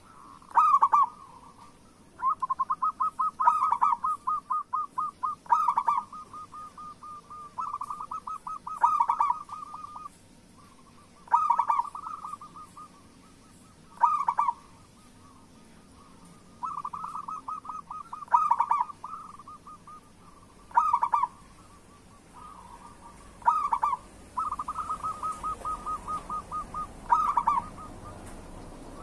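Zebra doves cooing: phrases of rapid stuttering notes, each punctuated by one or two louder coos, repeating every two to three seconds.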